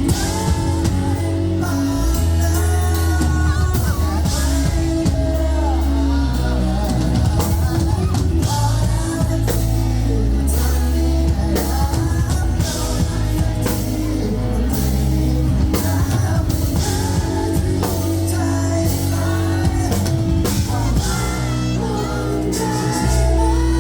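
Rock band playing live, with drum kit, bass and electric guitar, and a singing voice over the top.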